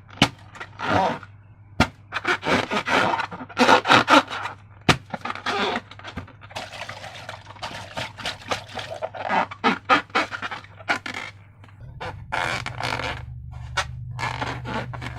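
Slime being squished and scraped by hand: an irregular run of sticky squelching and rubbing noises, with a few sharp clicks.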